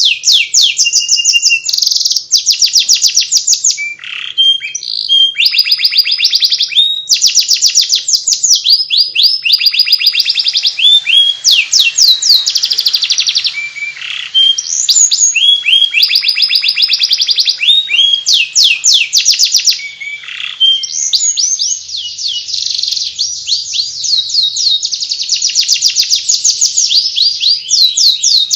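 Domestic canary singing a fast, high chattering warble of rapid trills and repeated down-sweeping notes, with no break.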